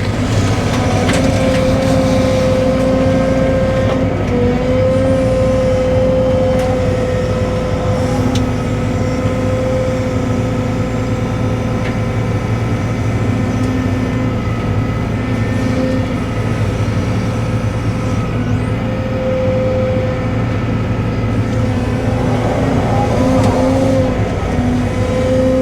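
Cat 313 excavator's diesel engine running steadily under work, with a held whine over it.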